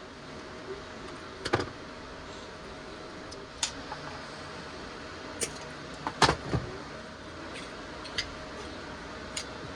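Scattered sharp clicks and knocks of chainsaw recoil-starter parts being handled, about half a dozen, with a loudest cluster a little after six seconds in, over a steady hiss.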